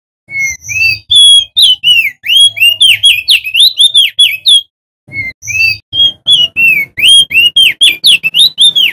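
Male opior jambul (crested white-eye) singing. Two rapid runs of high, sweeping whistled notes, each opening with a few lower notes, are separated by a brief pause about halfway through.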